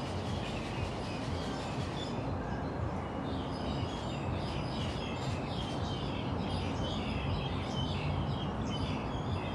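Small birds chirping in many short, quick notes, busiest in the second half, over a steady low rumble.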